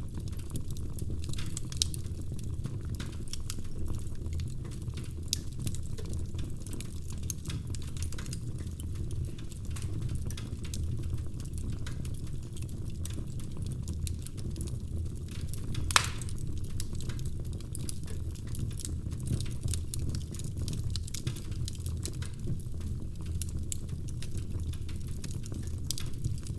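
Wood fire crackling in a fireplace: scattered small pops and snaps over a steady low rumble, with one louder pop about sixteen seconds in.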